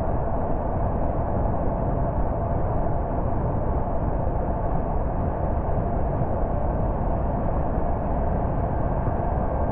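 Steady sound of a car driving along at an even speed: tyre and road noise with the engine running, holding level without any revving or change.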